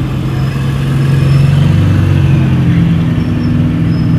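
Car engine running with a deep, steady exhaust note, growing slightly louder about a second in.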